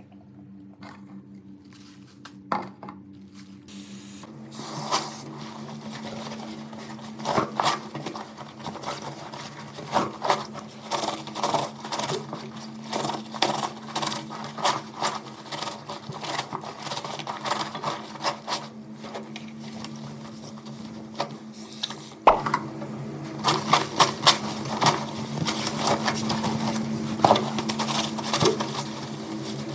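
A small machine running with a steady hum and rapid, dense clicking and rattling, setting in about four seconds in.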